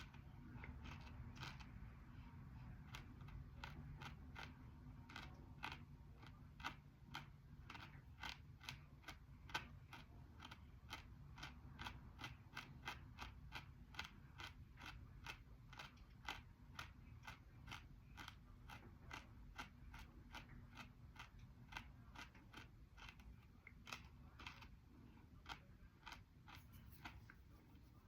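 Crispy baked 'black hole' edible clay being chewed with the mouth closed: a steady run of small, sharp crunches, about three a second.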